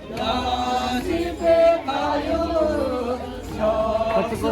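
A group of voices singing or chanting together, several pitches overlapping in long held notes.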